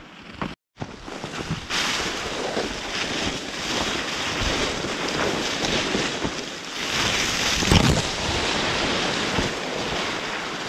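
Strong wind blowing in gusts and buffeting the microphone. It sets in as a steady rush about a second and a half in and swells louder about eight seconds in.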